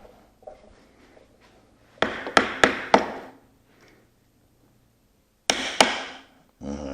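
Hammer tapping a steel workpiece to seat it level for drilling: a quick run of about four sharp strikes, then two more near the end.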